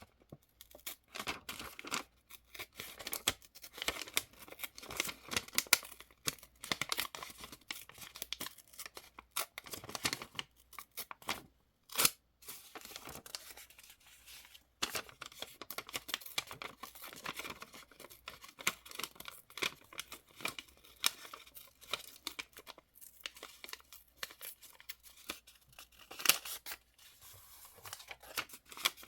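Paper being handled and torn for journal decorating: irregular rustles, crinkles and tearing scrapes with short clicks, and one sharp click about twelve seconds in.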